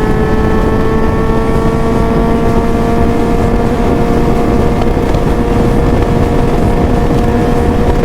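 Suzuki GSX-S750 inline-four with a full aftermarket exhaust (Ezaki header, SC Project silencer) running under load while riding, its pitch rising slowly and steadily as it gently accelerates. Wind noise on the microphone runs underneath.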